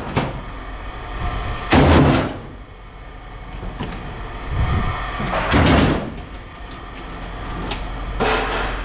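Three loud bangs, each lasting about half a second: about two seconds in, around six seconds in, and near the end, over a steady low hum.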